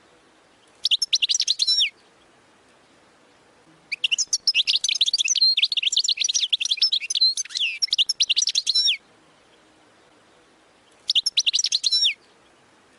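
European goldfinch singing rapid twittering song phrases in the style that breeders call 'wadani' goldfinch song. There is a short phrase about a second in, a long phrase of about five seconds in the middle, and another short phrase near the end.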